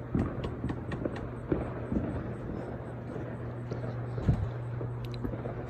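Fireworks going off: scattered, irregular pops and small bangs, a few a second, over a steady low hum.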